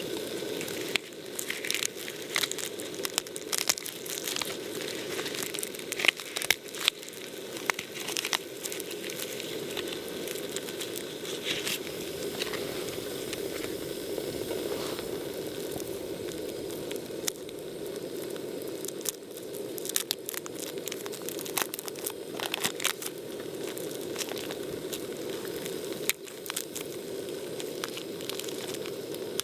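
Wood campfire crackling, with irregular sharp pops and snaps over a steady low rush of flame.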